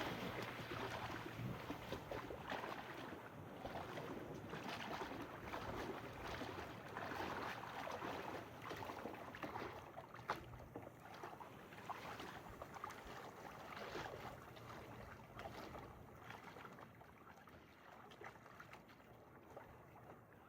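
A kayak being paddled across a lake: repeated paddle strokes splashing and water swishing along the hull, with one sharp knock about halfway through, growing fainter toward the end.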